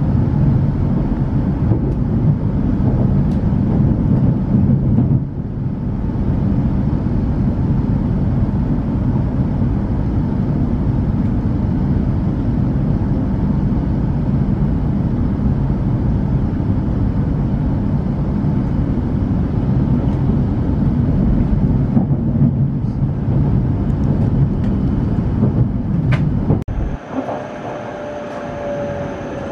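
Running noise heard inside a Hokuriku Shinkansen passenger car: a steady, loud rumble of wheels and drive as the train runs at speed. Near the end the rumble drops suddenly and a thin, slightly falling whine comes in as the train slows along the station platform.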